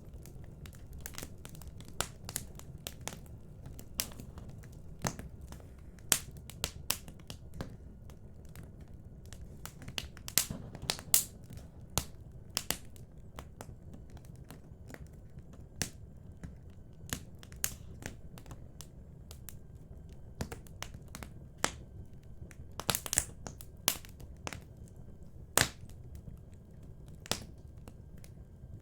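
Wood fire in a fireplace crackling, with irregular sharp pops of varying loudness over a low steady rumble.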